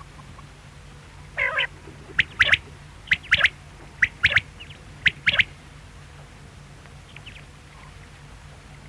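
Quail calling: a short rough note, then four quick three-note phrases, one about every second, then a couple of faint notes.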